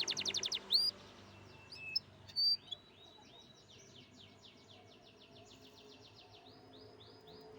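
Domestic canary singing. A loud, fast trill stops about half a second in, followed by a few single rising whistles and then a softer run of repeated notes at a slower pace.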